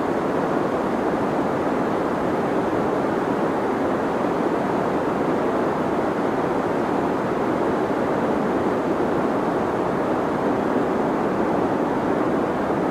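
Deep white noise for sleep: a steady, even rushing hiss, muffled, with most of its weight in the low and middle range and little treble, unchanging throughout.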